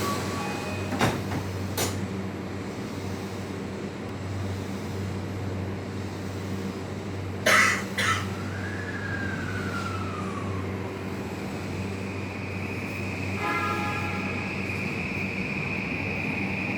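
Inside a Tokyu 3020 series electric train: a steady low hum with a couple of light knocks. About seven and a half seconds in there is a louder clatter, followed by a whine that falls in pitch over a couple of seconds. A steady high tone then sets in from about twelve seconds on.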